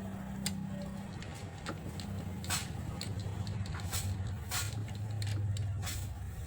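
Scattered light metallic clicks and scrapes of tools and parts being handled while a Toyota Hilux alternator is taken apart, over a steady low hum.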